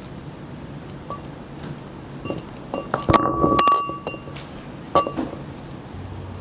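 Glass clinking: a few light taps, then a louder cluster of clinks with a short ringing tone about three seconds in, and one more ringing clink about five seconds in.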